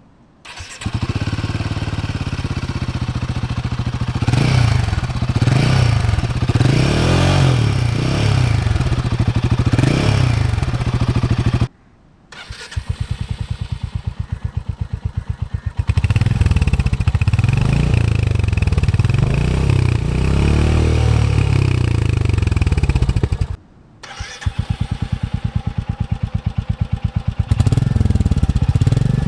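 Three Royal Enfield single-cylinder motorcycles heard one after another through their exhausts, a Himalayan 450, a Hunter 350 and a Meteor 350, each idling with a steady thump and blipped up in revs several times. Each bike is separated from the next by a brief pause.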